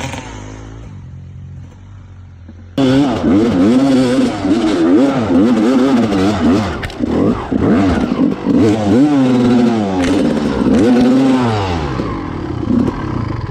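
Honda CR250 two-stroke dirt bike engine, fairly quiet for the first few seconds, then suddenly loud about three seconds in. Its pitch rises and falls over and over as the throttle is worked, then drops off right at the end.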